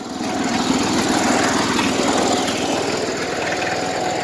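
An engine running steadily at an even speed, with a faint steady whine over it.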